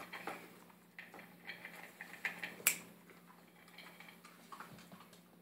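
Puppy eating from a bowl: irregular small clicks and crunches, with one sharper click about halfway through.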